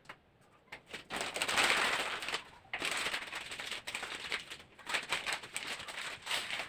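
Newspaper crinkling and rustling in a dense crackle as it is folded and handled around a bundle of French beans, in two long spells with a short pause between.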